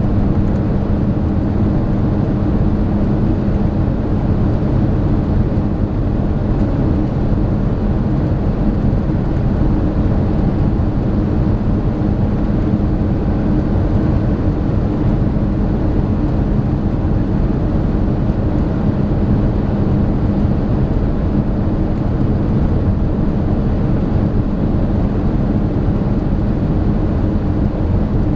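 Airbus A318 cabin noise in flight on the way down for arrival: a steady rush of air with a constant low hum.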